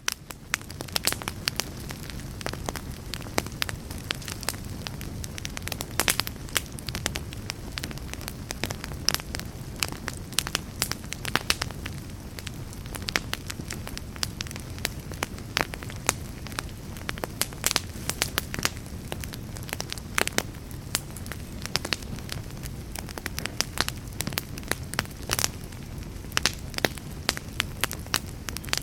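Wood fire burning in a fireplace: logs crackling with frequent irregular sharp pops over a steady low rumble of the flames. The sound fades in at the very start.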